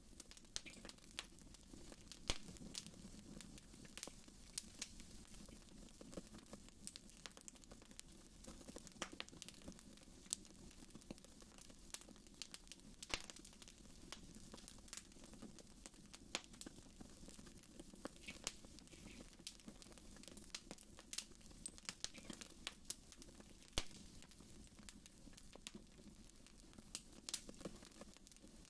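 Wood fire in a fireplace crackling, with irregular sharp pops and snaps, a few louder than the rest, over a faint steady low rumble.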